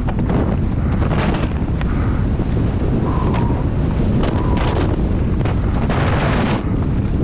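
Wind buffeting the microphone: a loud, steady low rumble with gusts throughout.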